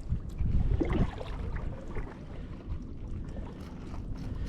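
Kayak paddling on calm water: faint paddle and water sounds under a low rumble of wind on the microphone, louder in the first second.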